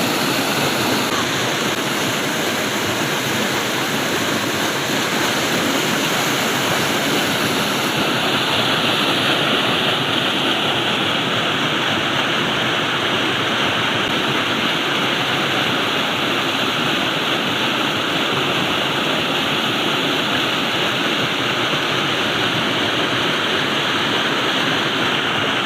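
Flowing water rushing steadily, a dense, even wash of sound; about eight seconds in its hiss shifts slightly lower in pitch.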